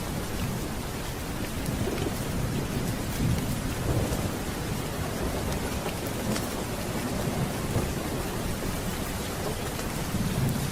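Steady rain with low rolling thunder that swells a few times, strongest about four seconds in and again near the end, with scattered sharp ticks over the top.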